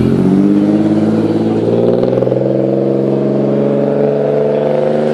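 Car engine accelerating hard as the car drives past: its note climbs early on, then holds a loud, steady pitch as it pulls away.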